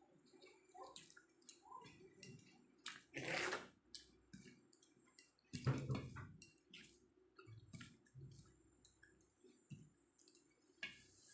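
Eating sounds of rice with jackfruit curry: soft chewing and small wet mouth clicks, with two louder bursts about three and six seconds in.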